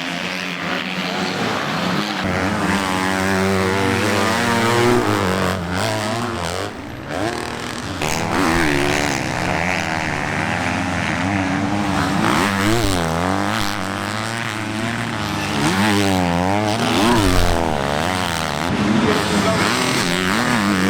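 Several motocross bikes racing, their engines revving up and down, with pitches rising and falling over and over as the bikes accelerate and shift.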